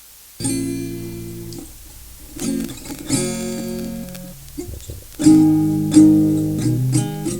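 Guitar playing strummed chords, each struck once and left to ring, with the loudest strums in the second half.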